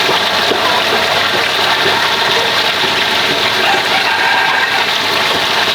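Motor-driven water pump running steadily, with water rushing.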